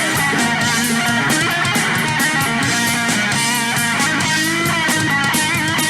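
Punk rock band's instrumental break with no vocals: an electric guitar lead with bending, wavering notes over bass and drums.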